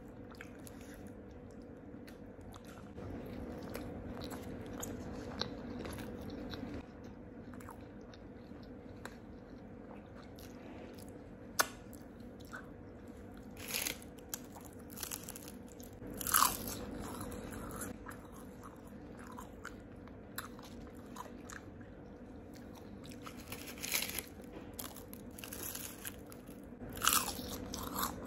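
Close-up eating sounds of crispy fried chicken and a burger: steady chewing with scattered crunches of the fried coating and a handful of louder crisp bites.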